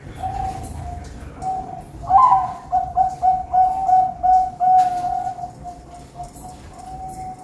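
Perkutut (zebra dove) cooing: a loud call starts about two seconds in and runs into a quick string of short, clipped coo notes, over softer cooing that goes on throughout.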